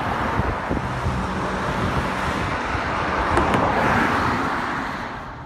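Road traffic passing close by on a bridge: the steady rush of car tyres and engines, one vehicle swelling to its loudest about four seconds in and then fading.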